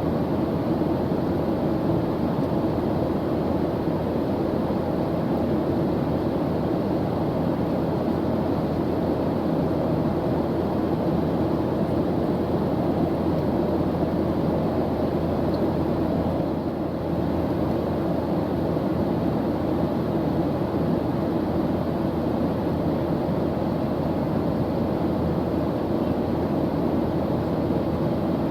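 Steady airliner cabin drone: the even rumble of jet engines and airflow in cruise, strongest in the low-middle range, with a brief slight dip about two thirds of the way through.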